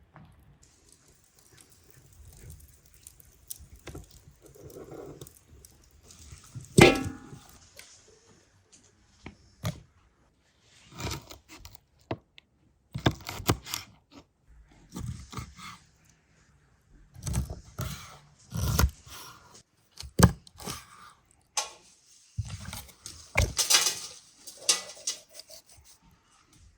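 A string of irregular knocks, clicks and scrapes, like things being handled and set down, with one loud knock about seven seconds in.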